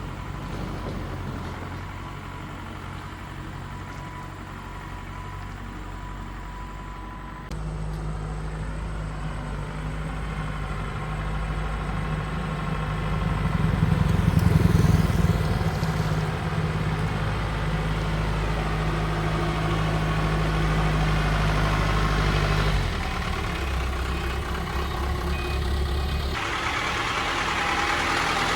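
Old car engine running steadily, louder for a few seconds about halfway through, with the sound changing abruptly a few times.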